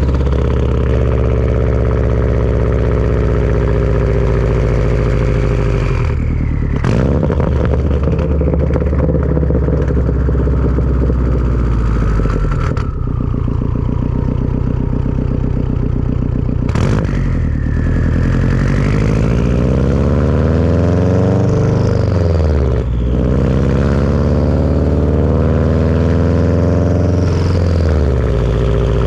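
Turbocharged Subaru flat-four breathing through a Tomei turbo-back exhaust, accelerating through the gears. The engine note climbs and drops back at each of about four shifts, with a turbo whistle sweeping up and down above it.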